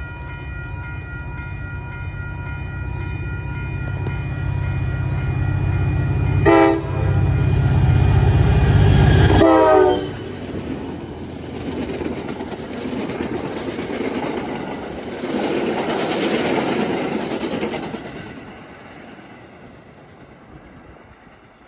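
MBTA commuter train passing close by. The diesel locomotive's engine drone builds as it approaches, and the horn sounds in short blasts about 6.5 s in and again as the locomotive goes by, its pitch dropping. The engine drone then cuts away and the passenger cars rattle past on the rails, fading near the end.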